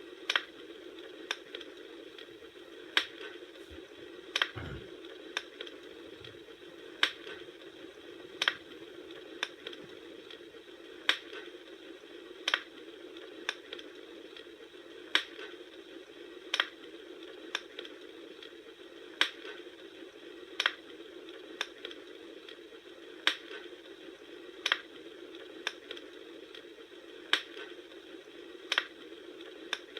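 Campfire crackling: sharp pops about every second and a half over a steady hiss.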